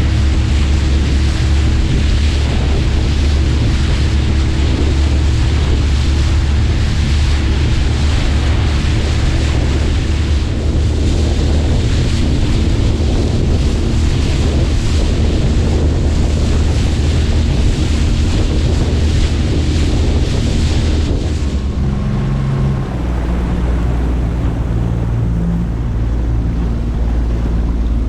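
A small boat's outboard motor running underway, with wind buffeting the microphone and water rushing past the hull. About 22 seconds in, the rushing hiss drops away and the engine note changes to a different steady hum.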